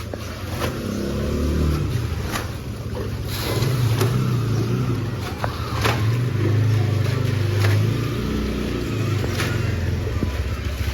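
A motor vehicle's engine running and revving up and down, with repeated sharp knocks or splashes over it.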